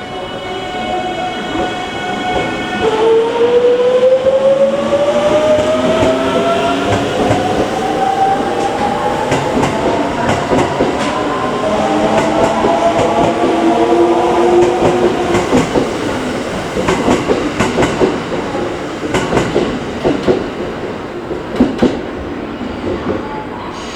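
Electric limited-express train of the 681/683 series pulling away. A steady tone stops about three seconds in, then the motors' inverter whine rises in pitch as it accelerates, and a quick run of wheel clicks over rail joints comes near the end.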